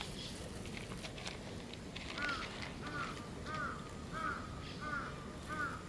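A bird calling in a steady series of about six short, arched notes, one roughly every two-thirds of a second, starting about two seconds in.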